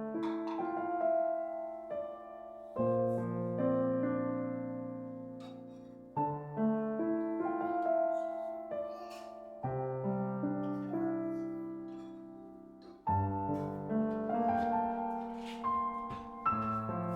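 Slow, gentle background piano music: soft held chords, with a new chord struck about every three and a half seconds and a few light notes over it.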